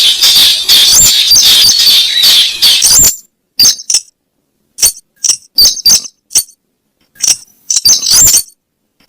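Recorded lure call of the weris bird: a fast, dense run of sharp, high, clinking notes for about three seconds, then broken into short clusters of separate sharp ticks with silent gaps between them.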